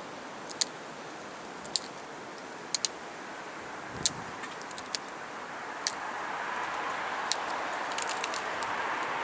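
Pressure flaking of Rainy Buttes stone: a dozen or so small, sharp clicks and ticks, some in quick pairs, as tiny flakes snap off the edge. A steady hiss grows louder from about six seconds in.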